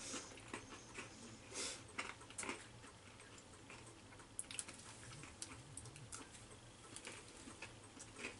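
Faint, scattered small crunches and clicks of someone chewing a crunchy chocolate, pretzel and peanut candy bar.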